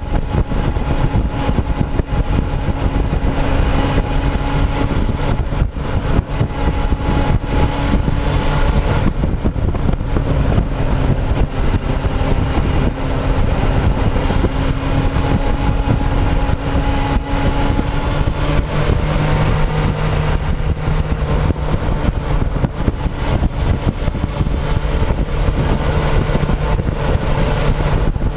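Motorcycle engine running under way, with dense wind and road noise. Its note sinks slowly over the first two-thirds, then a lower note rises.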